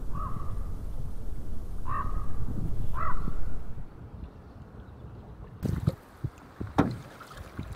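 Wind rumbling on the microphone, with a bird giving a few short chirps about a second apart. After a drop in level about two-thirds through, close canoe paddle strokes splash in the water with sharp knocks.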